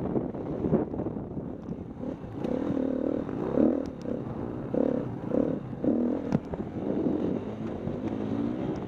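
Dirt bike engine revving in short on-off throttle bursts, its pitch rising and falling, with a sharp knock a little past the middle.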